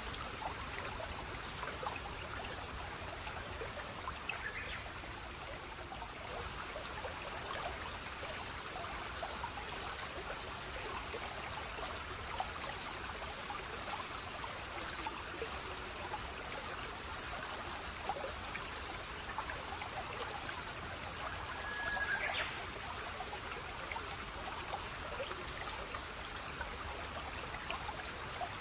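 Small stream of water trickling and splashing steadily, with a brief high chirp about three-quarters of the way through.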